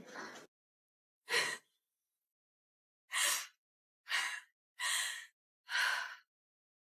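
A person breathing in five short, sighing breaths with pauses between them, like shaky, distressed breathing.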